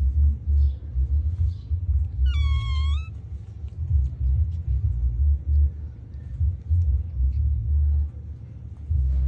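Low rumbling microphone noise that comes and goes, with one short, high whimper from a newborn puppy about two and a half seconds in, dipping slightly and rising at the end.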